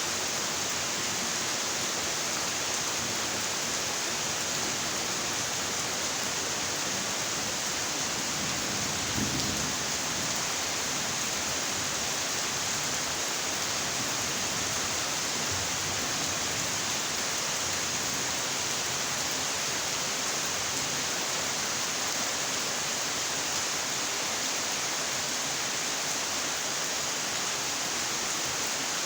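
Steady rainfall, an even unbroken hiss. There is a brief low thump about nine seconds in.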